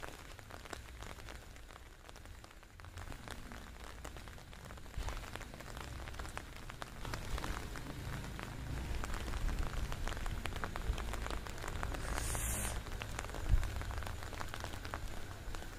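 Rain falling steadily, a dense patter of drops on surfaces, growing a little heavier partway through.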